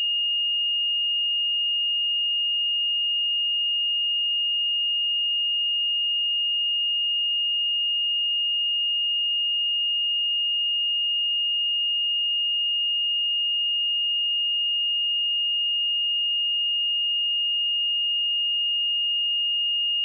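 A steady pure sine-wave test tone at 2843 Hz, a single high-pitched note held unchanged without a break.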